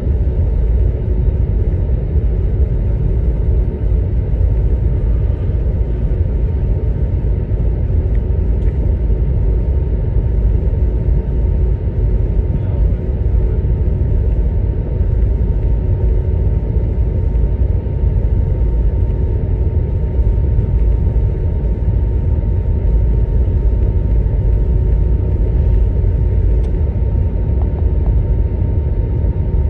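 Steady low rumble of an Airbus A321's cabin on the ground before takeoff, the engines and air system running, with two faint steady hums over it.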